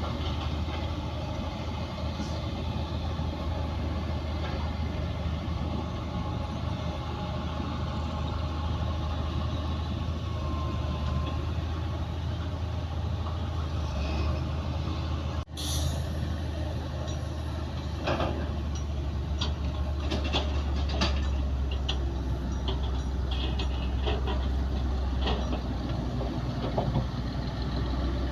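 Heavy diesel earthmoving machinery, bulldozer and dump trucks, running with a steady low rumble. The sound drops out briefly about halfway through, and after that come a series of sharp metallic clanks and knocks.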